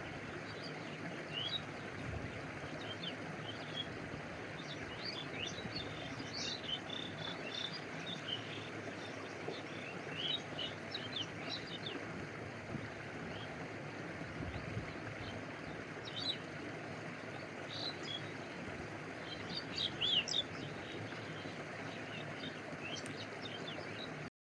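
Steady rush of a flowing stream with water lapping close by. Short high chirps of birds come and go over it, in small flurries.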